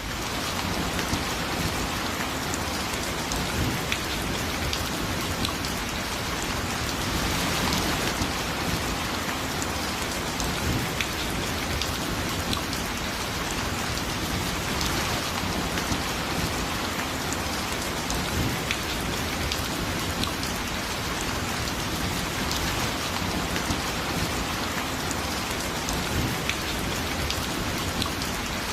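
Light rain falling steadily, an even hiss with scattered single drops ticking through it.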